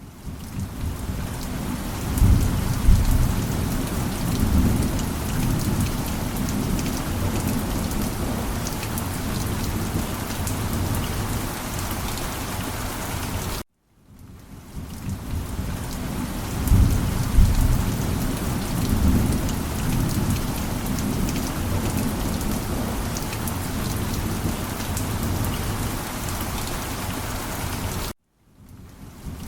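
Steady rain with low rolling thunder rumbling about two seconds in and again about sixteen seconds in. The sound cuts out for a split second about halfway through and again near the end.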